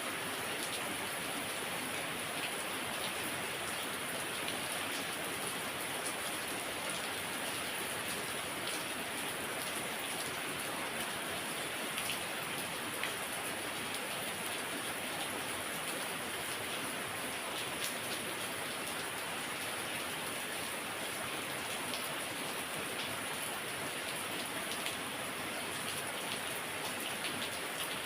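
Heavy rain falling steadily: an even hiss of rain on surfaces with scattered individual drop ticks.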